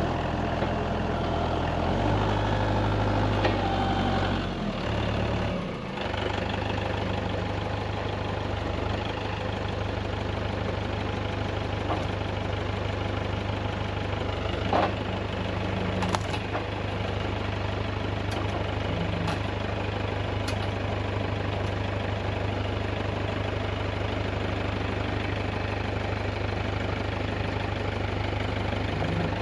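Tractor engine running, its note shifting over the first few seconds, then holding steady. A single sharp knock comes about halfway through.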